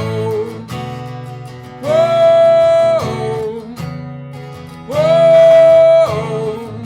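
Martin GPCPA4 acoustic guitar playing over a looper loop. A held high note comes back about every three seconds, lasts about a second, then drops to a lower one.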